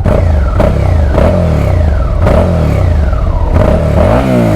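Suzuki SV650's 645 cc V-twin on its stock exhaust, revved in neutral: a quick run of throttle blips about every half second, then a couple of slower, longer revs near the end.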